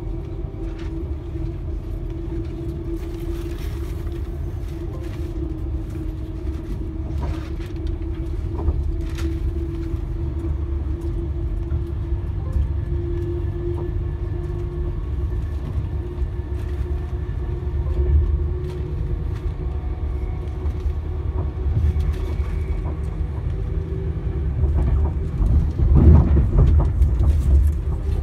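Class 390 Pendolino electric train running, a steady low rumble with a constant hum and a few light clicks, growing louder for a few seconds near the end.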